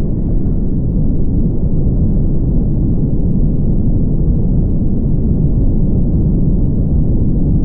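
Steady low rumble of a car driving: road and wind noise, even throughout with no distinct events.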